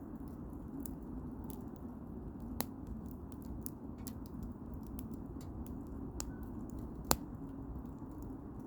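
Firewood burning in an open fire: a steady low rush with scattered crackles, and two sharper pops, one about two and a half seconds in and one about seven seconds in.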